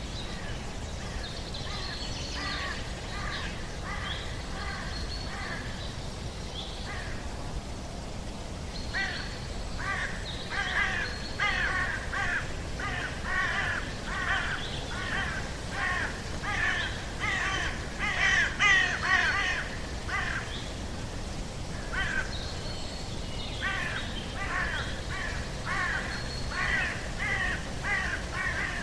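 Birds giving runs of short repeated calls, about two a second, over a steady background noise; the calls are loudest about two-thirds of the way through.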